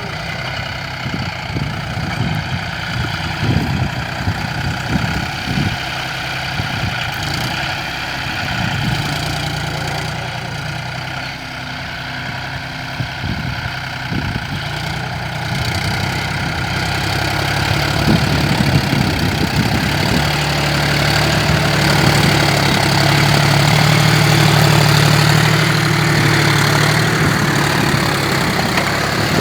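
John Deere 5105 tractor's three-cylinder diesel engine running steadily, growing louder about two-thirds of the way through.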